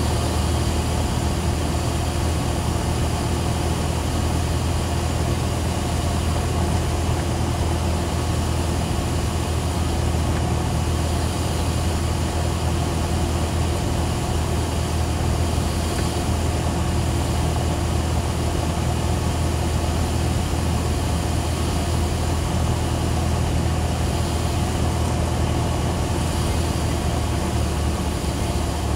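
Cessna 172SP's four-cylinder Lycoming engine and propeller running steadily on final approach, heard as an even drone inside the cockpit.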